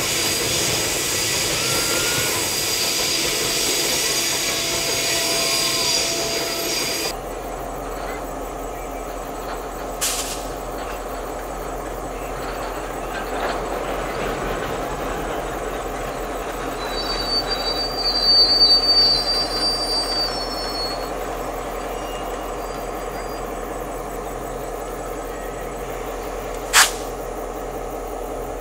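Loaded coal hopper wagons rolling through a curve, their wheels squealing in high, steady tones. About seven seconds in this gives way to a diesel locomotive's steady engine hum as it shunts slowly, with a brief wheel squeal and rumble near the middle and a sharp click near the end.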